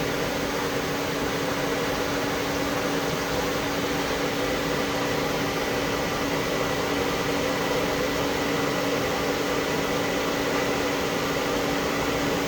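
Sub spindle of a Citizen L20 CNC Swiss-type lathe running steadily at about 3,000 RPM: an even machine hum with a few fixed tones over a hiss, sounding healthy.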